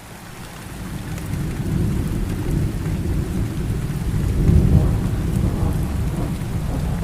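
Steady rain falling, with a low rolling thunder rumble that builds over the first couple of seconds and swells loudest about two-thirds of the way through.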